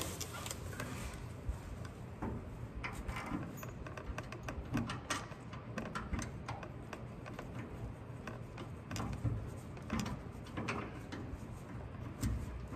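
Scattered light clicks and metal taps as a fastener is worked by hand to get its thread started.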